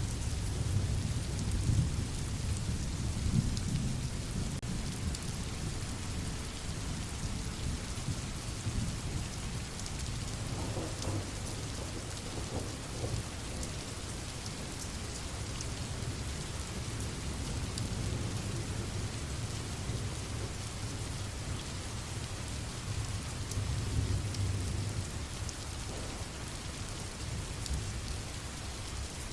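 Steady rain pattering, with low rolling thunder underneath; the rumble is heaviest at the start and swells again near the end.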